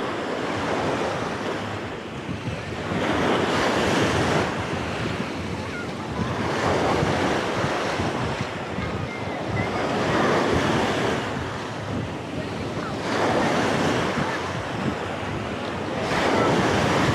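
Sea waves breaking on the shore, swelling and falling away about every three to four seconds, with wind buffeting the microphone.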